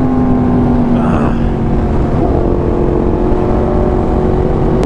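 2019 Yamaha R1's crossplane inline-four with an SC Project exhaust, running at a steady engine speed while being ridden, over a heavy rush of wind noise. The engine note changes pitch about two seconds in and again near the end, as the throttle or gear changes.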